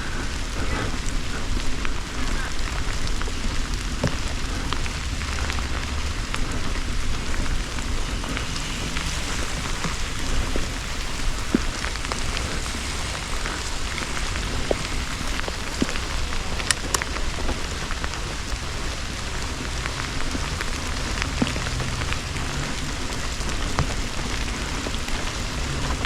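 Steady rain hiss with scattered drops ticking, over a low rumble.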